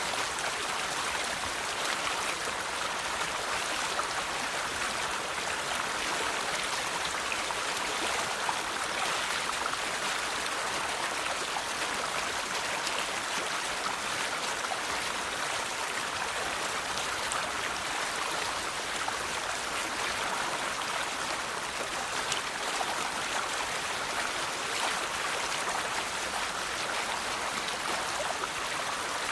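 River water flowing and splashing over rocks, a steady rushing with small trickling splashes.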